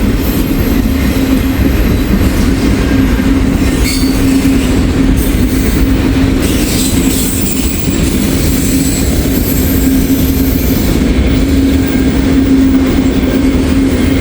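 Freight cars of a CSX intermodal train rolling past close by: a loud steady run of wheels on rail with a constant low tone and faint high wheel squeal coming and going. The train has a car with what the railfan takes for a locked-up brake, smoking, with a burning brake-shoe smell.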